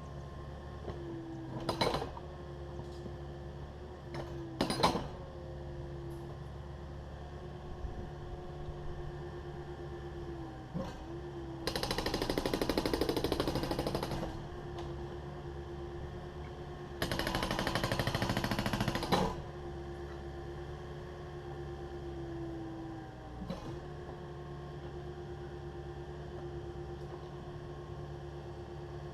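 Takeuchi TB260 excavator's diesel engine running steadily, with a couple of sharp knocks early on. Later come two loud bursts of rapid mechanical hammering, each about two and a half seconds long, as the concrete floor is broken up.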